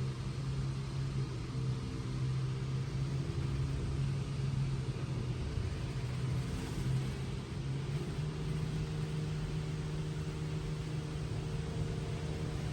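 Touchless automatic car wash running: a steady low mechanical hum under an even hiss of spray. The hum shifts slightly about eight seconds in.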